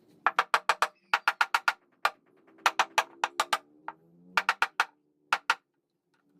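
Hand tool striking wood in quick runs of four to six sharp knocks, each ringing briefly, with single blows in between.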